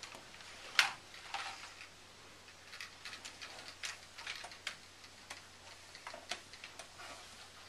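Scattered light clicks and taps of hard plastic toy parts being handled, the sharpest about a second in.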